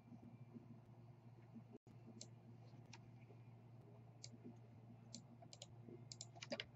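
Faint, irregular computer mouse clicks, a few spread apart and then several in quick succession near the end, over a low steady hum.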